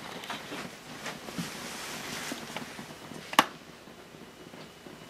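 Faint rustling and small handling knocks, with one sharp click about three and a half seconds in.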